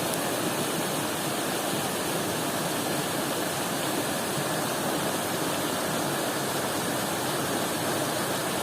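Stream water rushing and splashing over rocks, a steady, even rush.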